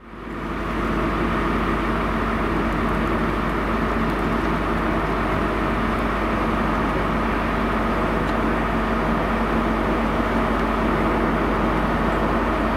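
Steady drone of diesel trains running in a station, fading in within the first second and then holding level, with a few steady engine tones.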